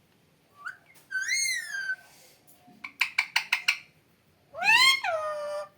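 Pet parrot whistling and calling: a short rising note, a whistle that rises and falls, a quick run of about six sharp chirps, then a loud, longer whistle that rises and then falls.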